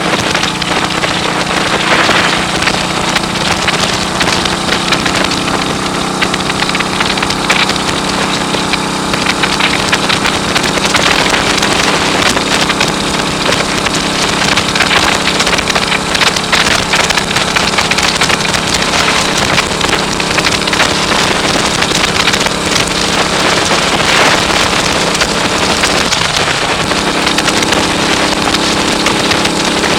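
1939 AJS Model 22 250 cc single-cylinder engine running steadily under way, largely buried under loud wind noise buffeting the microphone. The engine note changes about four seconds from the end.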